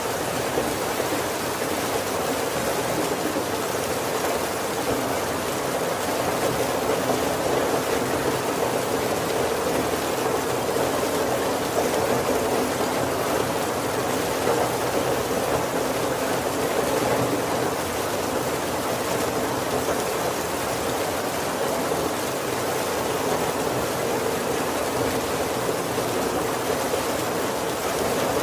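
Heavy rain falling steadily on the roof and windows of a wooden carriage, an even unbroken patter with no thunder.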